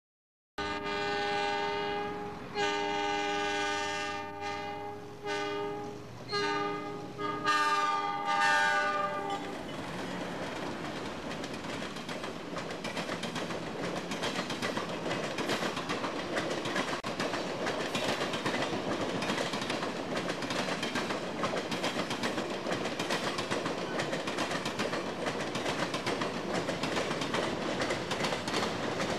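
Diesel locomotive air horn of the Amtrak Auto Train's GE P30CH pair, several tones sounding together in a series of blasts, long ones with a short one between, for the first nine seconds or so. Then the long train of passenger cars and bi-level auto-carrier cars rolls past with a steady rumble and a clatter of wheels over the rail joints.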